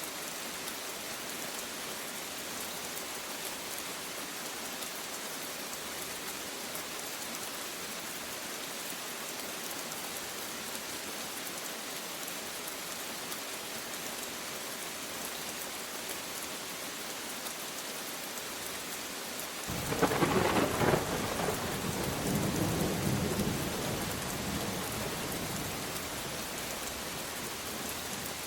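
Steady heavy rain falling, with a thunderclap breaking suddenly about two-thirds of the way through and rumbling on for several seconds before dying away.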